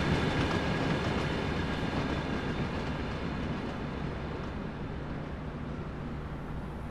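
Freight train tank cars rolling past on the rails, wheels clicking over the track, the sound fading gradually as the train moves away.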